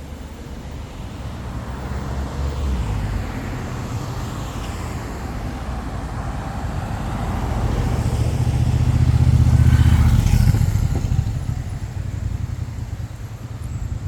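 A motor vehicle passing close by: a low engine hum with tyre noise that builds to its loudest about two-thirds of the way through, then fades.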